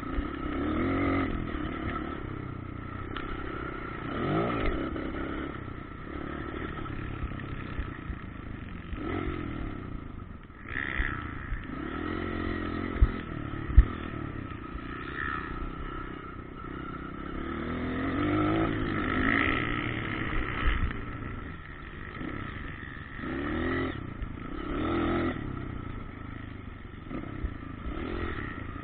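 Motocross bike engines revving up and falling back again and again as bikes ride the track, with a couple of sharp knocks about halfway through.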